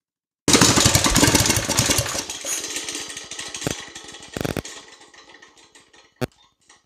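Predator 212 single-cylinder four-stroke mini bike engine with a custom exhaust running loud, then winding down. Its firing slows and fades away over a few seconds, with a few sharp exhaust pops as it dies.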